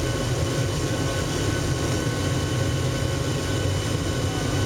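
Steady jet engine and cabin noise heard inside a Boeing 737-700's cabin: a deep, even rumble with several constant whining tones from its CFM56-7 turbofans.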